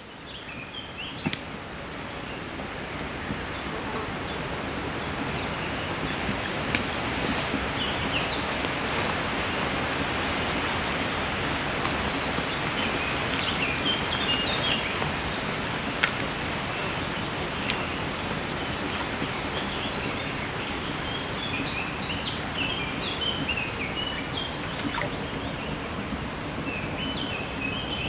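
Small birds chirping on and off over a steady rustling outdoor hiss, with a few sharp clicks.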